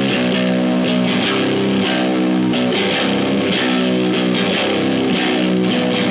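Electric guitar playing held chords with some dirt, through the Wyong Rd Electronics Keris, a one-knob boost/overdrive/fuzz pedal; the chords change about every second.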